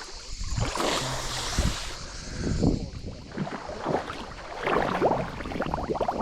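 Water sloshing and splashing in irregular bursts.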